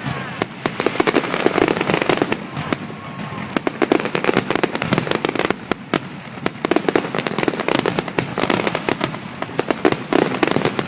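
Fireworks finale: a dense, rapid barrage of aerial shell bursts, bangs following one another several times a second, with crackling and the odd whistle among them.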